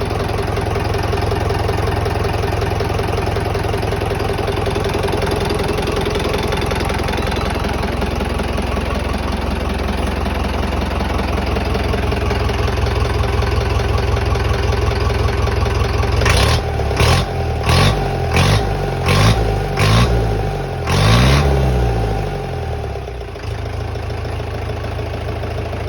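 A freshly overhauled, non-turbo Tata 709 diesel engine idles steadily. About two-thirds of the way in it gets a run of quick throttle blips, then one longer rev, before settling back to idle.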